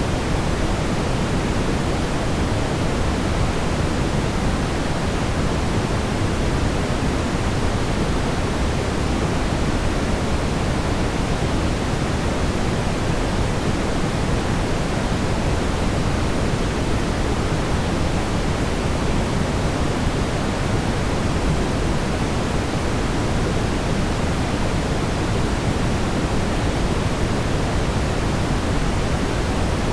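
Brown noise: a steady, unbroken synthetic rumble of noise, strongest in the low end and fading off towards the highs.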